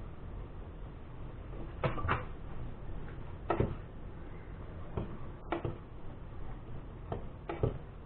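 A series of light, sharp knocks and clicks at irregular intervals, about seven in all, over a faint steady hum.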